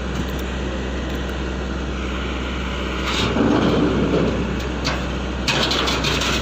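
SANY excavator's diesel engine running steadily, with a louder surge of noise about three seconds in and metallic clattering near the end.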